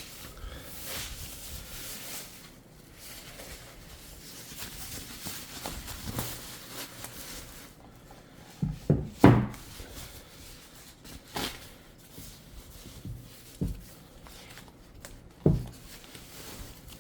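A boxed bookshelf speaker being unpacked by hand. Packaging rustles, then comes a handful of separate knocks and thuds, the loudest about nine seconds in.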